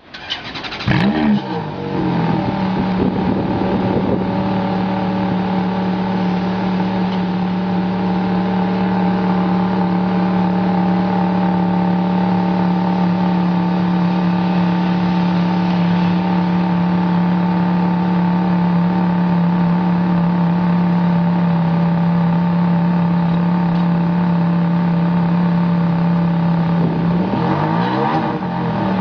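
Ferrari F430's V8 through a Novitec exhaust starting up with a quick flare in revs, then idling steadily. Near the end the idle briefly dips and rises, settling a little lower.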